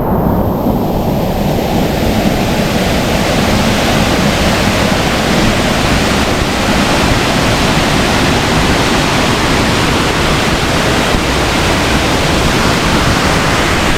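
Waterfall rushing close by: a loud, steady roar of falling water, growing brighter over the first two seconds.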